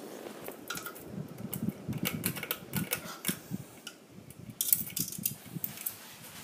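Ceiling fan running under a string of irregular sharp clicks and clattering knocks, densest near the end.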